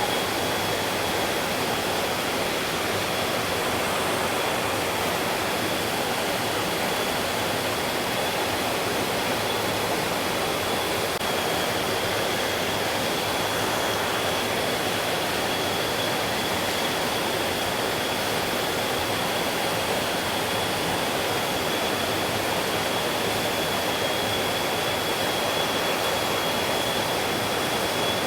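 Mountain stream rushing steadily over rocks, an even continuous wash of flowing water. A thin, steady high-pitched tone runs through it.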